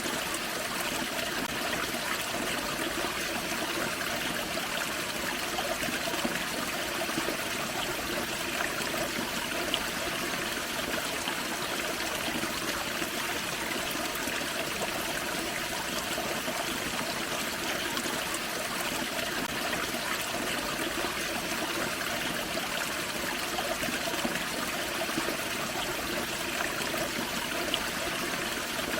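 A small forest creek flowing steadily over a low waterfall: continuous splashing and trickling water.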